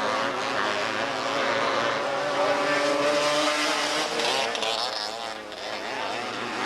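Engines of several small open-wheel race cars running at racing speed, their pitches overlapping and rising and falling as the cars lap. The sound dips briefly about five and a half seconds in.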